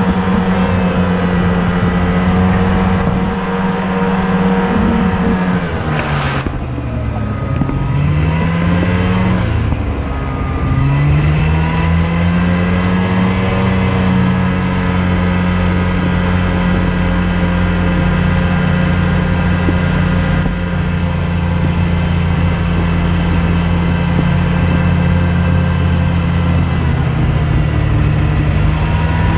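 A vehicle engine running at steady revs, easing off about five seconds in and dipping again near ten seconds before picking back up and holding steady.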